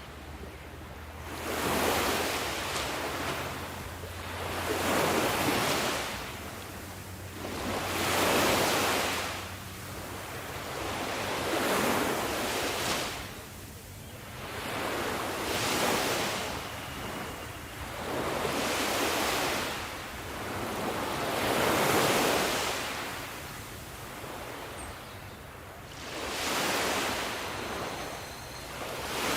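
Ocean waves breaking on a shore, a rush of surf that swells and recedes in a regular rhythm, about one wave every three to four seconds.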